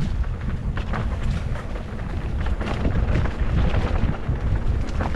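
Wind buffeting the microphone while riding a rough dirt trail, with an unsteady low rumble and frequent short rattles and knocks.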